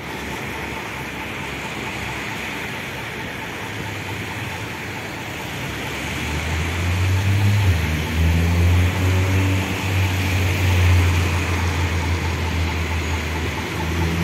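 Steady street traffic noise. From about six seconds in, a heavy low rumble builds with a faint rising hum as a train passes over the viaduct.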